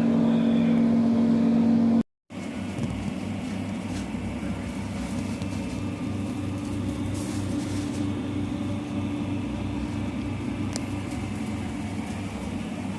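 Dirt bike engine running at a steady held pitch, then, after a brief dropout, idling with an even, regular low pulse.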